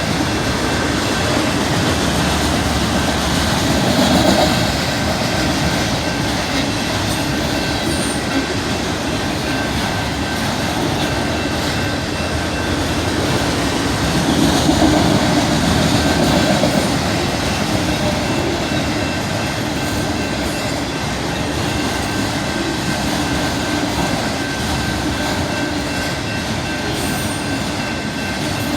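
Railroad cars of a Canadian Pacific train rolling past at a crossing: a steady, loud rumble of steel wheels on the rails, with a thin steady high tone over it and slight swells in loudness twice.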